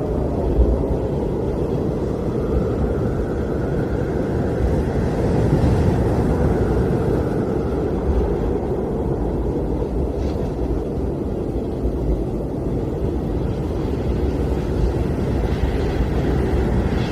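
Blizzard wind, a steady low rumble with a faint whistle that rises and falls.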